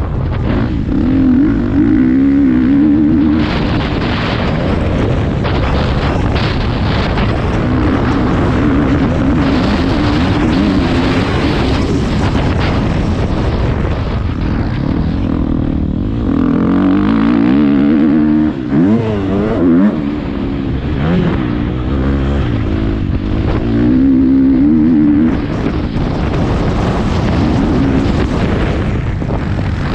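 Motocross bike engine revving up and down as the rider accelerates and shifts, heard from a helmet-mounted camera with wind rushing over the microphone.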